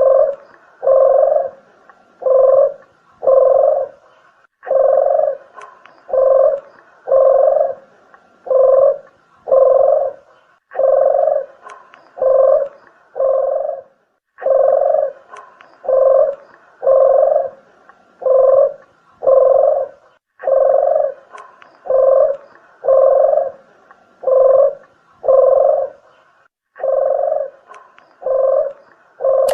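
Collared dove ('deruk' / 'puter geni') cooing over and over. Low, hollow coos come in runs of four to six, each run followed by a short pause, as used for luring the birds.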